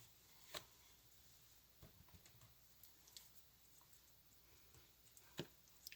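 Near silence with a few faint taps and clicks from handling small craft pieces while gluing: one about half a second in, a few smaller ones in the middle, and a sharper one near the end.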